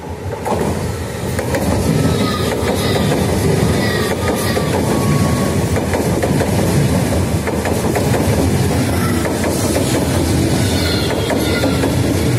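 Italo high-speed electric train passing through the station at speed without stopping. Its loud rush of wheels and air builds suddenly about half a second in and then holds steady, with rapid clicks of the wheels over the rails and faint high whines.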